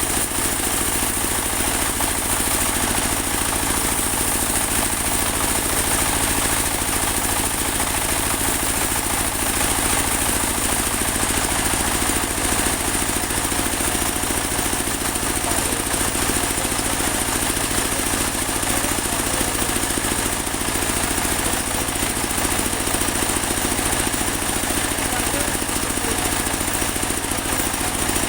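Portable engine-driven band sawmill running steadily while sawing a large teak log, its engine and blade making a constant even noise with a high hiss above it.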